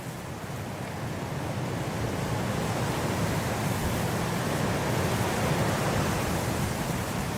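Blizzard wind blowing as a steady rushing noise, swelling in a slow gust through the middle and easing a little near the end.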